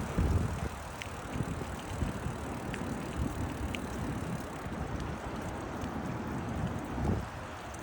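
Wind buffeting the microphone of a moving bicycle, with steady low rumbling road noise and a few faint ticks.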